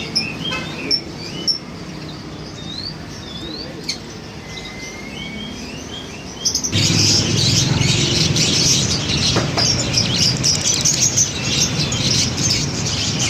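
Lovebirds chirping: scattered short rising chirps at first, then about halfway a sudden switch to a louder, dense chattering of many birds over a low background rumble.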